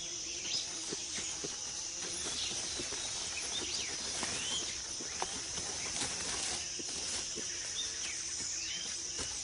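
Tropical rainforest ambience: a steady, high-pitched insect chorus, with short, quick chirping calls repeating every second or so and scattered small clicks.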